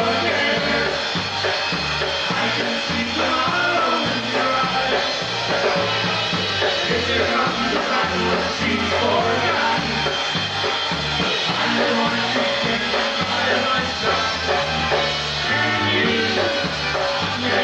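Live polka band playing a tune with drums and a bass line stepping between notes.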